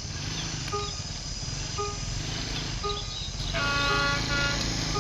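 Diesel locomotive of a passing train, its engine rumbling low, with a multi-tone horn sounded for about a second, roughly three and a half seconds in. A short pitched beep repeats about once a second throughout.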